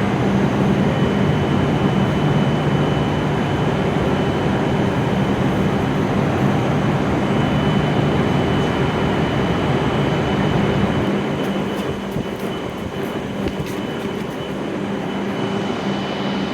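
W7-series Shinkansen train running slowly as it comes in to stop, a steady rumble with a low hum and a faint high whine that eases off about eleven seconds in as the train comes to a halt.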